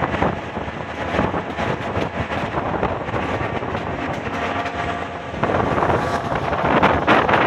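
Wind buffeting the microphone over the running noise of a moving diesel-hauled passenger train, growing louder about five and a half seconds in.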